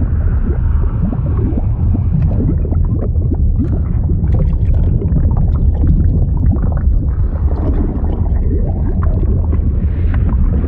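Fluid sound effect: a loud, steady deep rumble of moving liquid with many small irregular bubbling pops and gurgles over it.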